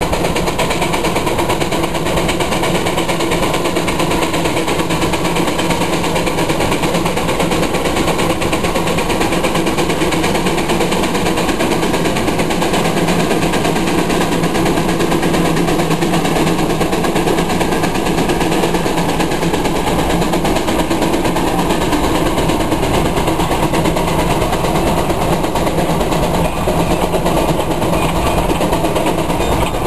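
Russell steam traction engine pulling a plow, its smokestack exhaust chuffing steadily under load.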